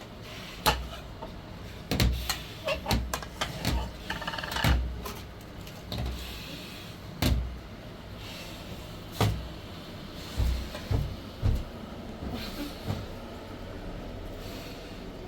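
A run of irregular knocks and clatters, about a dozen, bunched in the first half and thinning out after, over a steady low hum.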